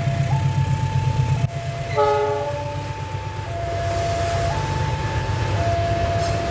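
Departing passenger train's diesel locomotive running with a steady low rumble, sounding one short horn blast about two seconds in. Under it an electronic warning alarm alternates between a high and a low tone about once a second.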